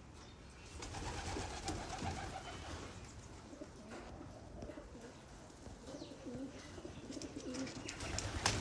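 Pigeons cooing, several low calls overlapping, with scattered light taps and clicks.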